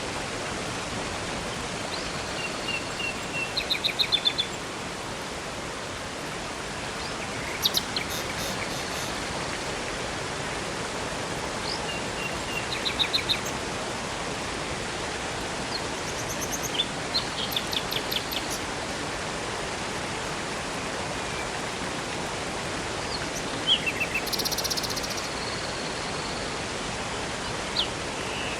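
Steady rush of a river and waterfall, with songbirds calling over it: short high chirps and quick trills every few seconds.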